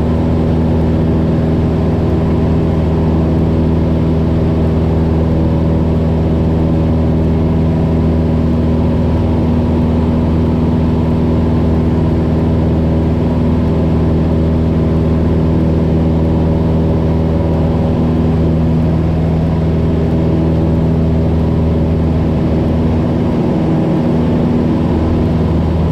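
A Cessna 172's piston engine and propeller drone steadily at climb power, heard from inside the cabin.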